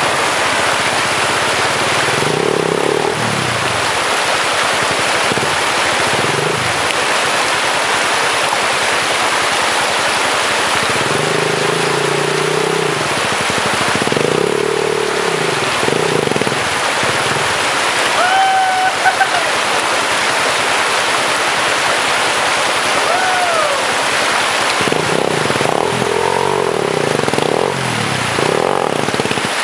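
Rushing river water, with a trail motorcycle's engine revving in several bursts as the bike is pushed and ridden through the crossing. A couple of brief gliding calls come in past the middle.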